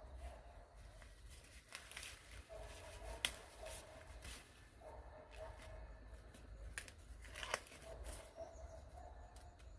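Faint tearing and crackling sounds, with two sharp snaps about three seconds in and again about seven and a half seconds in.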